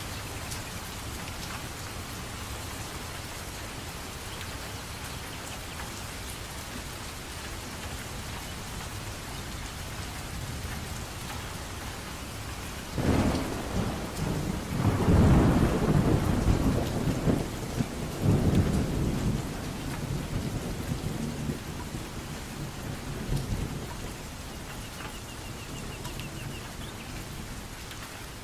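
Steady rainfall with a thunderclap about halfway through, cracking suddenly and then rolling and rumbling for about ten seconds before fading back into the rain.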